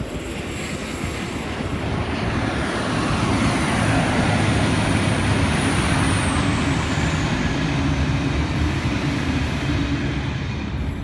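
Rolling rumble of a freight train's wagons on the rails, building over the first few seconds and then holding steady. A faint high squeal slides down in pitch about six seconds in.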